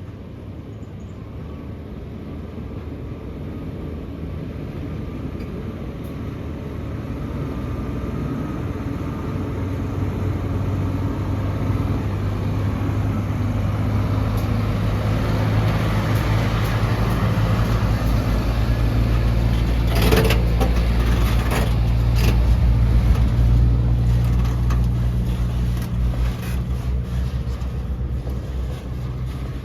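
Heavy diesel engine of earthmoving machinery running, growing steadily louder over about fifteen seconds as it comes closer or works harder, with a few sharp metallic knocks around twenty seconds in.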